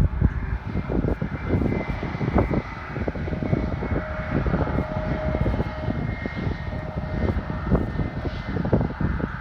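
Airplane engines running, a steady high whine over a low rumble, with wind buffeting the microphone.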